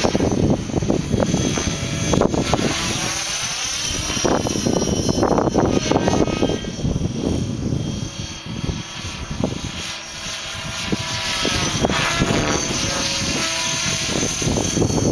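T-REX 600 flybarless RC helicopter flying, the rotor and motor whine gliding up and down in pitch as it manoeuvres, a little quieter for a few seconds past the middle, with wind rumbling on the microphone.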